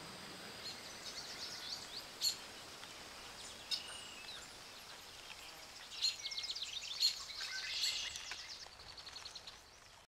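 Small birds chirping and trilling in quick, high notes over a faint steady hiss of natural ambience; the song is busiest from about six to eight seconds in, then thins out.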